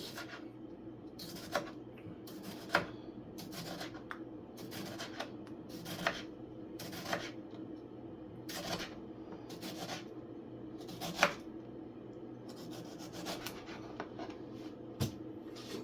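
Kitchen knife slicing a tomato, about two strokes a second at an uneven pace.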